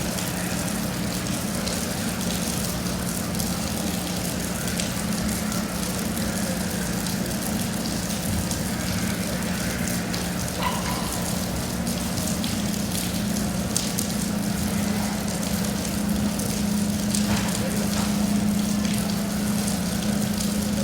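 Steady rain falling: a continuous hiss with scattered pattering drops, over a steady low hum.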